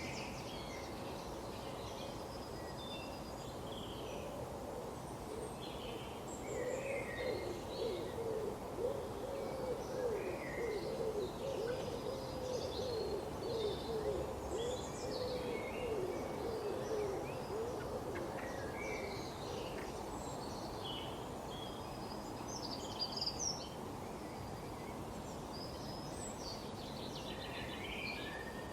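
Birds calling: a long run of low, quickly repeated notes from one bird, starting about six seconds in and dying away about two-thirds of the way through, over scattered high chirps from small birds.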